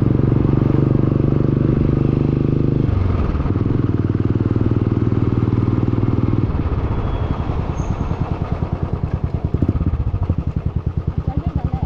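Motorcycle exhaust, very loud, running at a steady speed. About three seconds in the engine note drops, and after about six and a half seconds it settles into a slower, pulsing beat of separate firing strokes.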